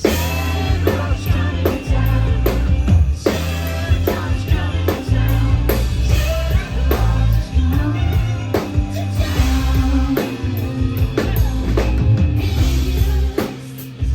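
Amplified live band music with a steady drum beat and heavy bass, and some singing.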